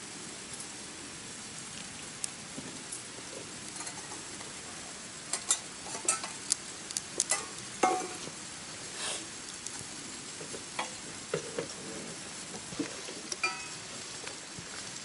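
Wood campfire burning: a steady hiss with sharp crackles and pops, thickest about five to nine seconds in.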